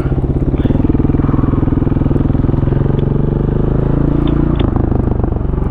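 Single-cylinder four-stroke enduro dirt bike engine running while riding single track, its revs shifting a little about halfway through.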